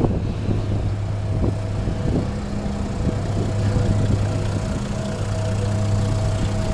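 A Toyota Land Cruiser 100-series engine idling steadily, a low even hum, with a few light knocks in the first few seconds.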